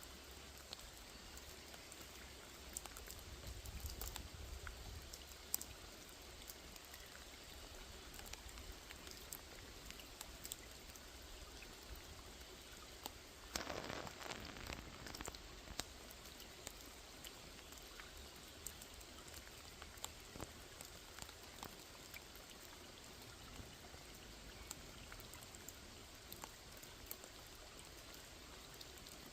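Rain falling on a small lake: a faint, steady hiss of rain with many separate drops pattering. Near the middle, a louder rush lasts about two seconds.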